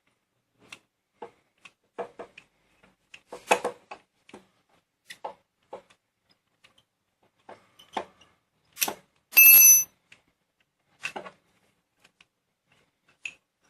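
Scattered small metallic clicks and knocks of hand tools working a motorcycle brake caliper bolt loose. A little past the middle comes one louder, ringing metal clink.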